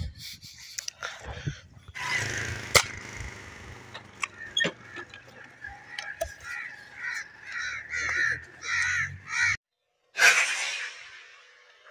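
Harsh bird calls repeated about twice a second over outdoor noise. After a brief drop-out comes a sudden loud burst near the end, the loudest sound here.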